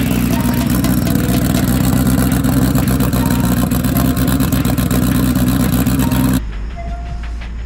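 Turbocharged Honda Civic four-cylinder engine idling steadily with the hood open. The sound drops away abruptly about six seconds in.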